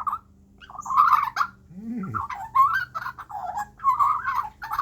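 Juvenile Australian magpie calling: a run of short, rough calls with brief gaps between them.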